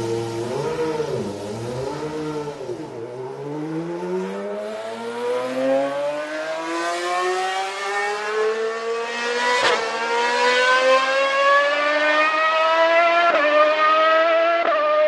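Car engine revving unevenly, then accelerating, its pitch climbing steadily for about ten seconds with two brief dips near the end.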